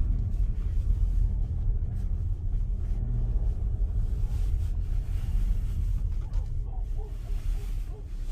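Car engine and road rumble, heard steadily from inside a moving car, easing slightly near the end. Short high chirps come in over it toward the end.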